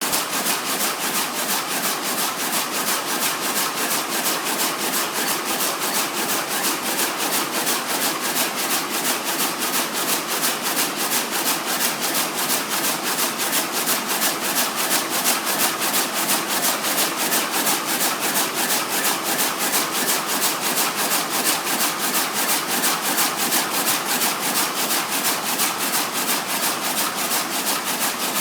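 CMS 788 simple repair machine running with an even, fast rhythm of rasping strokes, several a second.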